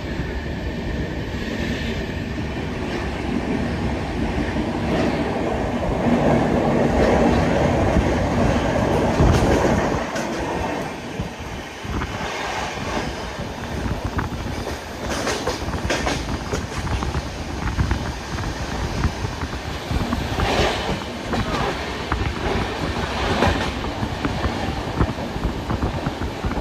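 Indian Railways passenger train running on the rails, heard from inside one of its coaches: a steady rumble and rattle of wheels on track, loudest about six to ten seconds in, then lighter, with occasional sharp clacks.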